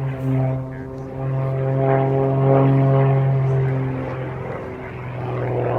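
Aircraft engines droning: a steady low hum with a stack of overtones, swelling about two seconds in and easing off toward the end.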